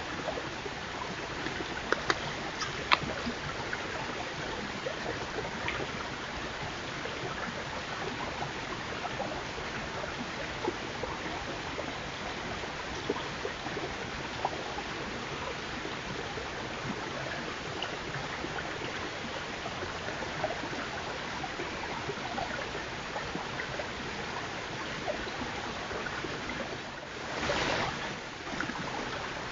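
Steady outdoor hiss from a trail camera, broken by scattered sharp clicks and crunches of white-tailed deer chewing apples, with a brief louder rush of noise near the end.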